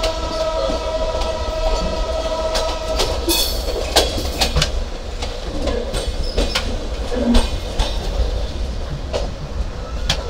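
Sundarban Express passenger train running through the station yard, heard from on board: a steady low rumble with irregular clacks of the wheels over rail joints and points. A steady high tone sounds over it for about the first three seconds.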